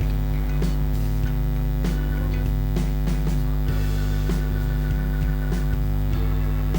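Steady electrical mains hum, with a few faint clicks scattered through it.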